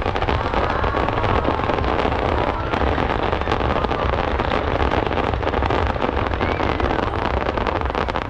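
Fireworks display: a rapid, dense crackling and popping over a steady low rumble.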